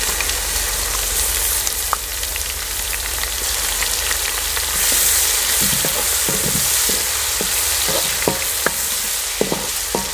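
Ginger-garlic paste sizzling in hot oil with browned onions in an aluminium karahi. From about halfway, a wooden spatula stirring and clicking against the pan.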